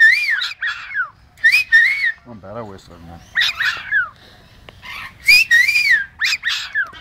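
Parrot whistling: a string of about six short whistles that swoop up and down in pitch, with a brief low chatter about two and a half seconds in.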